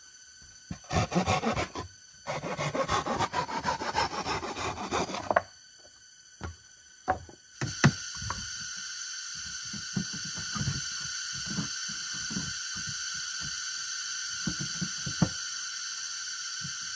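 Rhythmic scraping of a hand tool on wood in two spells of fast strokes, then a few single knocks. From about halfway a steady high hiss sets in, with scattered soft knocks.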